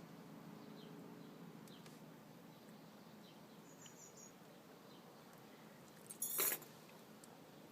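A few faint, quick, high chirps from a small bird about four seconds in, over a low steady background hum. About six seconds in comes one short, loud burst of noise, the loudest thing here, like a rustle or scrape.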